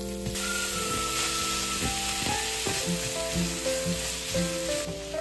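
Minced meat, garlic, diced onion and carrot sizzling in a hot frying pan. The sizzle swells suddenly about a third of a second in as the onion and carrot are tipped in, with a few light knocks in the middle, and eases a little near the end.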